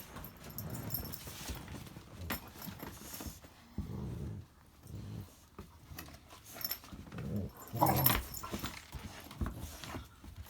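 A puppy and a larger dog play-fighting, with low play growls coming in short bouts and a few sharp knocks among them. The loudest burst comes about eight seconds in.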